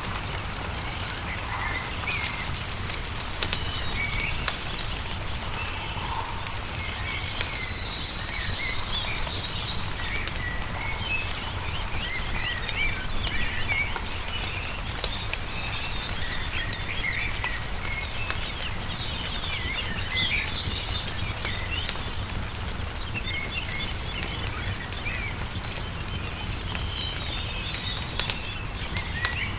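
Many small birds chirping and singing over the crackle of a wood fire, with scattered sharp pops and a steady low rumble underneath.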